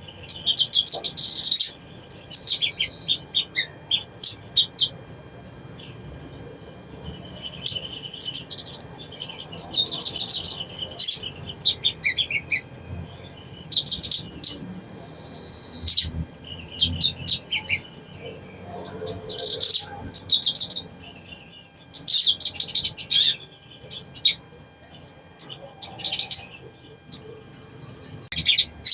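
Little spiderhunter (sogon) singing: fast, high chattering phrases in repeated bursts with short pauses between them.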